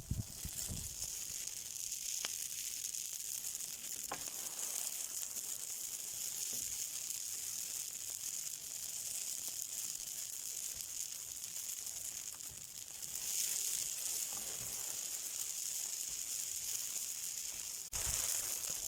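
Something burning with a steady, high sizzling hiss and a few faint crackles. The hiss swells a little about two-thirds of the way through, and a low thump comes near the end.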